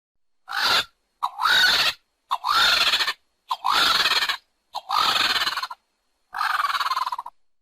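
Vulture calling: six harsh, rasping calls about a second apart, most opening with a short rising yelp.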